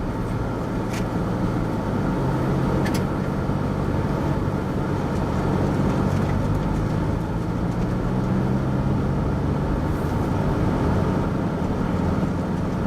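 Car engine and tyre noise heard from inside the cabin while driving at a slow pace: a steady low hum whose engine note strengthens a couple of seconds in, with a couple of faint ticks.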